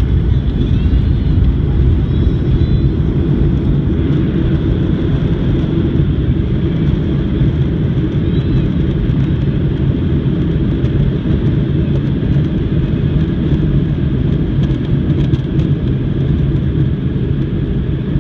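Steady low rumble of a moving vehicle heard from inside its cabin, even in level throughout.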